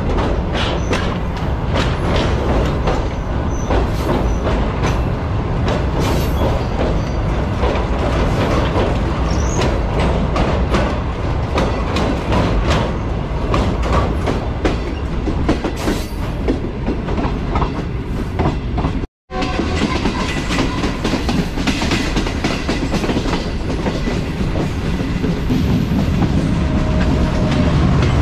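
Pakistan Railways Green Line Express passenger train running along the track, its wheels clicking rapidly over rail joints under a steady rumble. The sound cuts out for an instant about two-thirds of the way through, then the rumble carries on more evenly.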